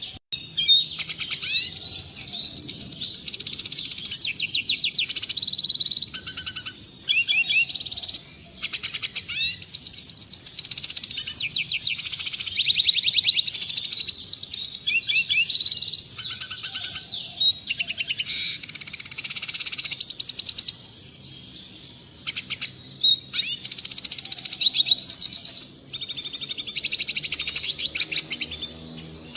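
Red siskin singing: a long run of fast twittering trills and chirps, high-pitched, broken by brief pauses.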